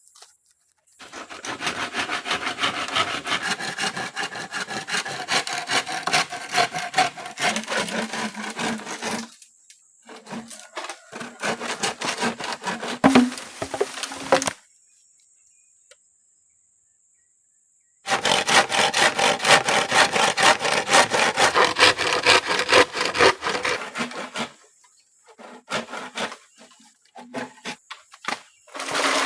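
Hand saw cutting through wood in several spells of rapid back-and-forth strokes, with short pauses between them.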